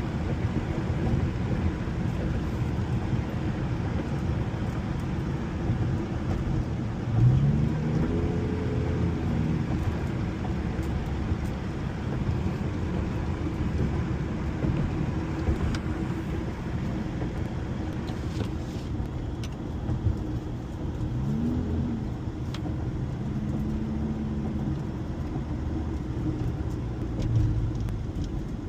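Honda car driving, with steady engine and road noise. The engine's pitch rises and levels off a few times as it accelerates, first about seven seconds in and again a little past the two-thirds mark.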